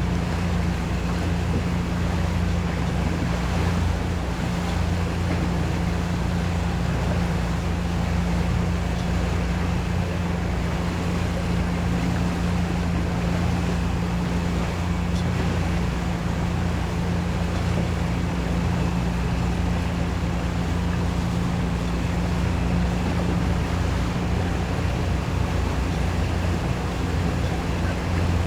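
Motorboat engine running at a steady drone, with the wash of water and wind noise over it.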